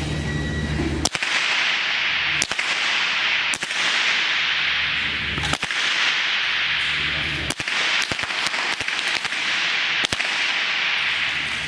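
Rifle shots on a firing range: about six sharp cracks at uneven intervals, over a steady hiss.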